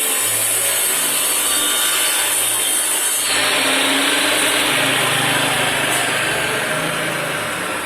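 Power tool working pine wood, a steady loud noisy whir that shifts in tone about three seconds in.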